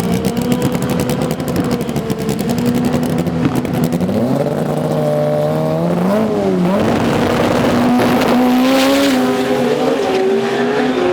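Drag racing cars running hard down the strip. Engine pitch climbs, drops sharply at a gear change about six and a half seconds in, then climbs again.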